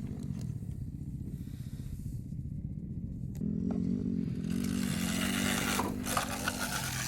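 Small KTM youth dirt bike engine running, then revving up about halfway through with its pitch rising. A rushing hiss joins in soon after as the bike gets under way.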